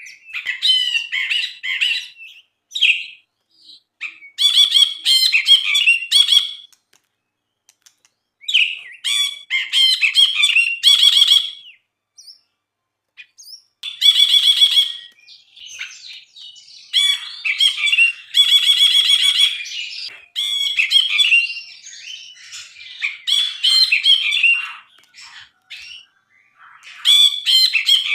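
Brinji (bulbul) singing: phrases of rapid chattering and whistled notes a couple of seconds long, repeated with short pauses.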